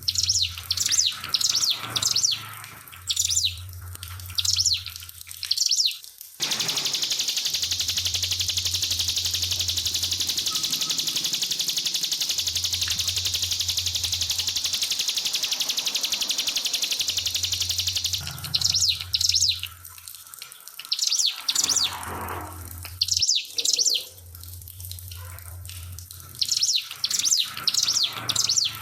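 Ciblek pinus, a prinia, singing. Bursts of high, sharp chirps give way about six seconds in to a long unbroken rapid high trill of about twelve seconds, then the chirping resumes. Trickling water runs faintly behind it.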